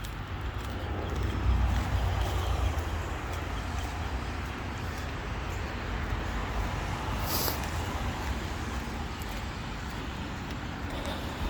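Road traffic going by, a steady rush of tyre and engine noise with a deep rumble that swells about one to three seconds in, and a short sharp high sound about seven seconds in.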